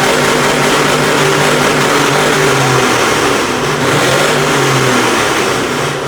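A loud vehicle engine running at high revs, held fairly steady with brief dips a little past the middle and near the end.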